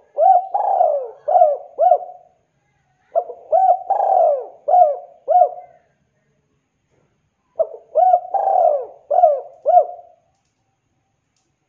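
Spotted dove (tekukur) cooing loudly in three phrases of about five coo notes each, with a short pause between phrases. It is a vigorous calling song that draws other doves to answer.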